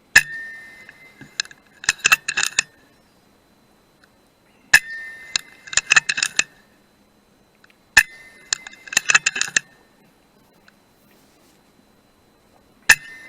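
FX Dreamline .177 air rifle firing four shots a few seconds apart. Each shot is a sharp metallic crack with a brief ring, followed a second or two later by a quick run of metallic clicks and clinks.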